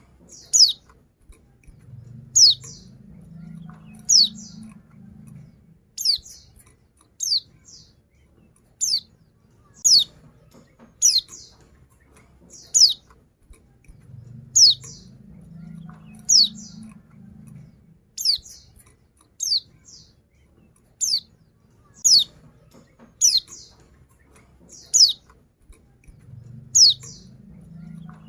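Female white-eye (pleci) calling: short, high notes that slide downward, repeated about every one to two seconds. A faint low hum comes and goes underneath.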